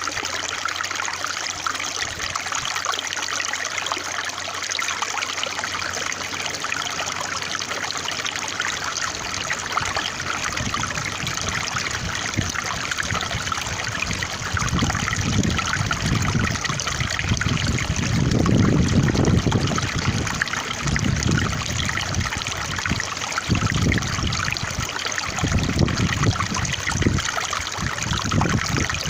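Running water trickling and splashing steadily, like a small stream, with deeper, irregular swells of lower sound in the second half.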